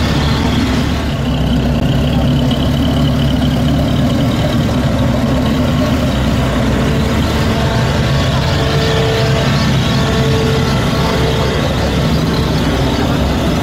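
First-generation Chevrolet Camaro's V8 idling steadily through side-exit dual exhausts, with no revving.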